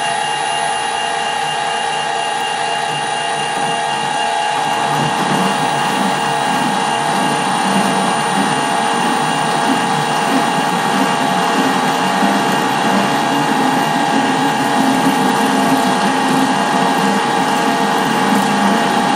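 Metal lathe running under power with a steady gear whine; from about four and a half seconds in, a rougher grinding rumble joins as the cutting tool works into tough metal.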